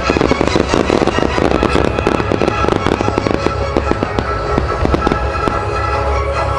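Aerial fireworks shells bursting in rapid succession, a dense string of bangs that thins out over the last second or so. Show music plays throughout.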